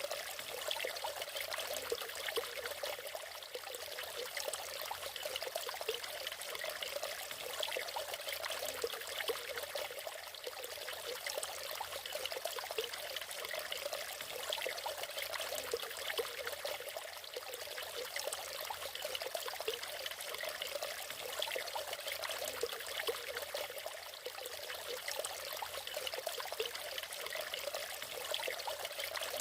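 Water of a small natural waterfall splashing and trickling steadily over rocks, an unbroken rushing hiss with fine splashy detail.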